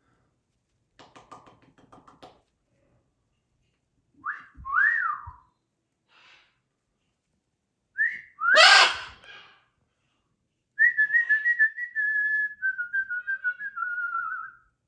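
A macaw calling: soft quick chatter, then two whistled notes that rise and fall, a loud screech, and finally a long warbling whistle that slowly drops in pitch.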